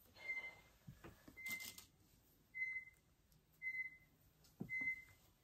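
Pet bird giving short, flat whistled calls, five in a row, evenly spaced about once a second. A brief rustle of fabric being handled comes between the first two.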